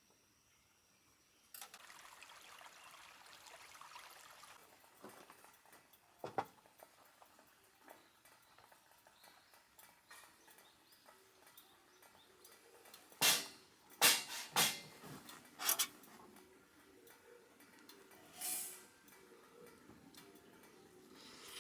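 Camp-gear handling: a soft rustle after a quiet start, scattered small clicks, then a cluster of sharp knocks and clatters past the halfway point and a brief rustle near the end.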